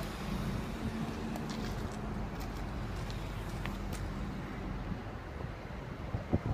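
Amtrak Downeaster passenger train approaching with a steady low drone and rumble. Wind buffets the microphone in sharp thumps near the end.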